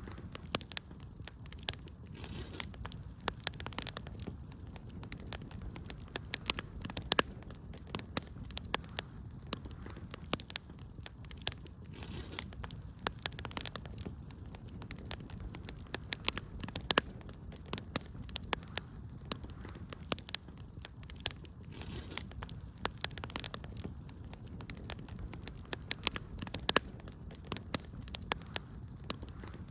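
Wood fire crackling in a fireplace: a steady low rumble of flames under frequent irregular snaps and pops, a few of them sharper and louder than the rest.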